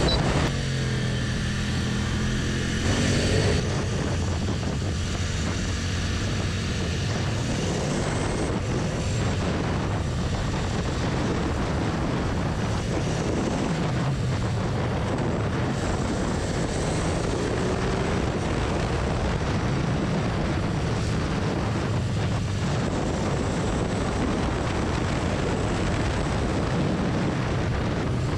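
Royal Enfield Continental GT650's 648 cc parallel-twin engine running at road speed, with wind rushing past. The engine note rises and falls a few times with the throttle, and is briefly louder about three seconds in.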